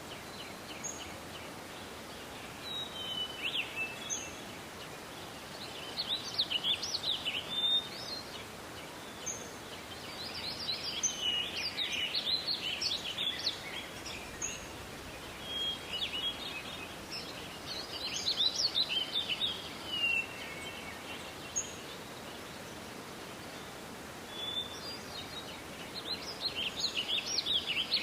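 Songbirds singing: bursts of quick, high chirps and short trills come every few seconds, with pauses between them, over a steady background hiss.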